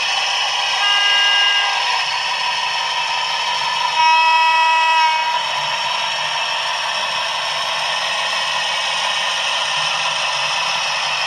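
Sound decoder of a PIKO model of the NS 2200-class diesel locomotive playing a steady diesel engine running sound through its small speaker, with two short horn blasts, about a second in and about four seconds in, the second one lower in pitch.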